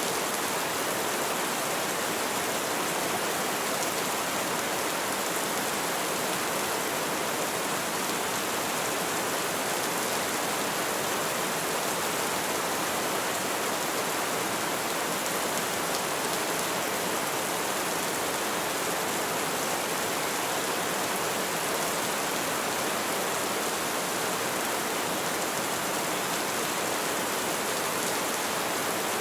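Heavy rain falling steadily: an even, unbroken hiss with no thunderclaps.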